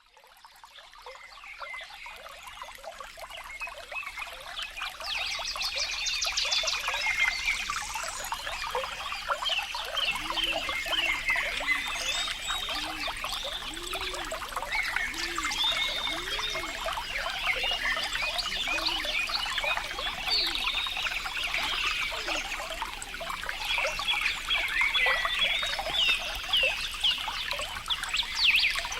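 Water trickling and burbling, fading in over the first few seconds, with high chirping calls throughout. A run of low croaking calls comes about once a second from about ten to twenty seconds in.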